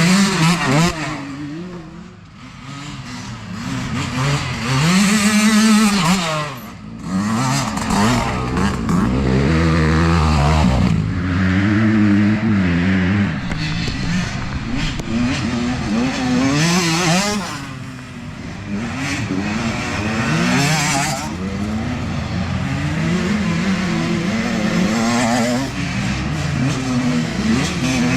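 Youth dirt bike engines revving hard, pitch rising and dropping again and again as the bikes accelerate, shift and back off on the trail, with several bikes passing close one after another.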